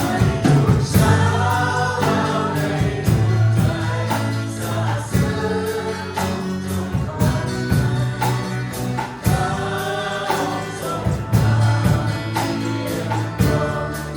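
Worship team singing a Christian worship song with band accompaniment and a steady beat.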